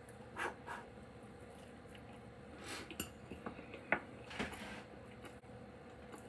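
Faint sounds of a person eating a bite of breaded chicken: quiet chewing with a few small scattered clicks, and a couple of soft sniffs.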